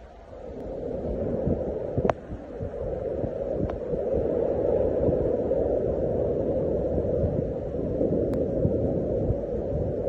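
Wind buffeting the microphone: a low rushing rumble that builds over the first two seconds and then holds steady, with a few faint clicks.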